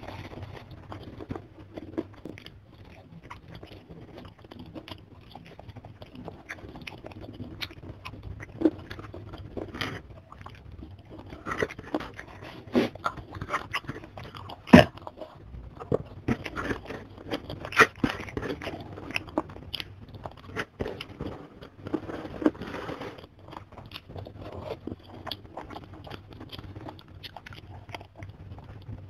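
Close-miked chewing and crunching of crisp fried food with rice: wet mouth sounds broken by sharp crunches. The loudest crunch comes about halfway through.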